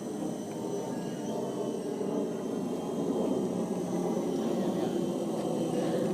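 A steady engine drone, slowly growing louder, of the kind an aircraft makes.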